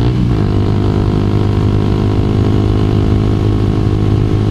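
Honda CBR250R's single-cylinder engine running under way at steady speed, with a brief change in pitch just at the start before holding even.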